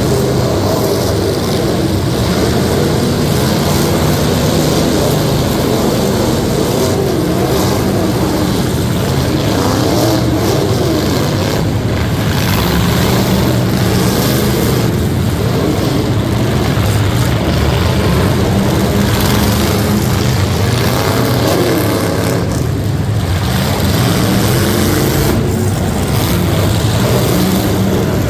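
Competition trucks' engines running loud, the pitch rising and falling again and again as they rev.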